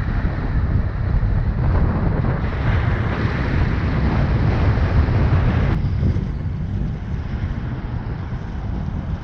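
Wind buffeting the microphone: a ragged low rumble under a noisy hiss. The hiss grows brighter midway and cuts back suddenly about six seconds in.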